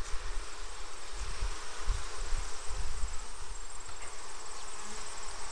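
Honeybees buzzing around an open hive, a steady dense hum, with low rumbling on the microphone.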